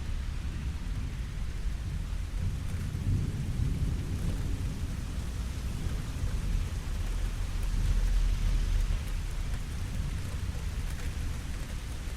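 Steady rain falling, an even hiss, over a low rumble that swells about three seconds in and more strongly around eight seconds in.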